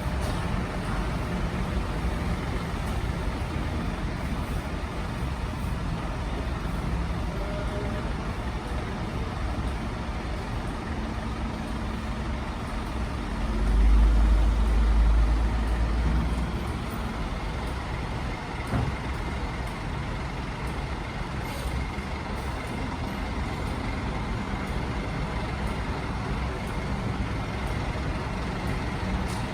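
Steady road traffic noise, with a heavy vehicle's engine rumbling loudly for a few seconds about halfway through.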